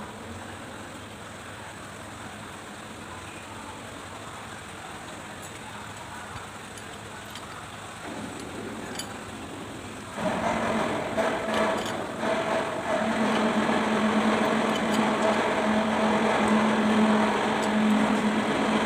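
A machine starts up about ten seconds in and runs steadily with a constant hum, louder than the low background before it.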